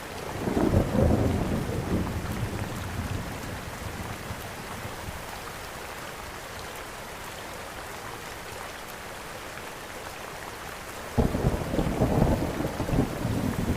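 Steady rain hiss with two rolls of thunder: one swells about half a second in and fades over a few seconds, and a second breaks suddenly near the end.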